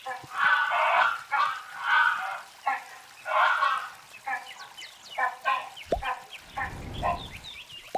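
A bird giving loud, rasping calls about twice a second, joined in the second half by thin, sliding whistled notes.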